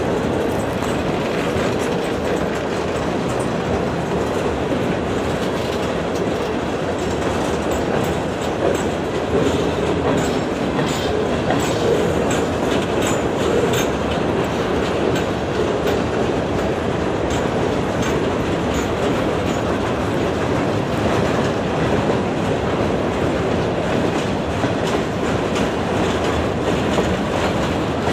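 Freight train of open-top gondola cars rolling steadily past, the wheels clattering over the rail joints, with short high-pitched wheel squeals now and then in the middle.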